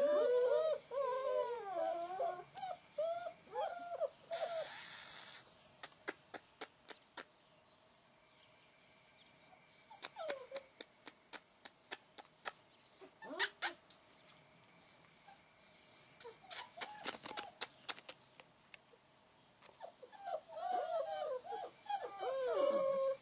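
Long-coat German Shepherd puppies whining and whimpering in high, wavering cries at the start and again near the end, with a couple of short whines in between. Scattered sharp clicks and taps fill the quieter middle, and a brief hiss comes about four seconds in.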